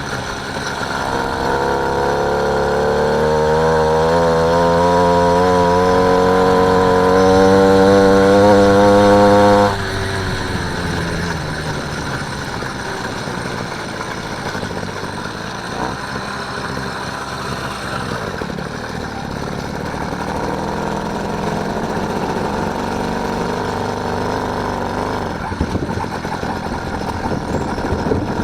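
A motorised bicycle's small engine being ridden. For about the first ten seconds it is under throttle, its note climbing and holding with a slight waver. Then the throttle closes abruptly and it drops to a lower, rougher running sound as the bike rolls on.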